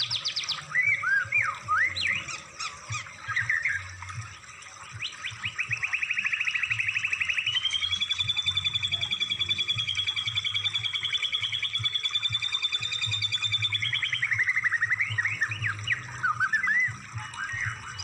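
Recorded songbird song used as song-tutoring material: short sweeping chirps, then about five seconds in a fast trill that runs into a long, rapidly pulsing note held for about six seconds, then more chirps near the end.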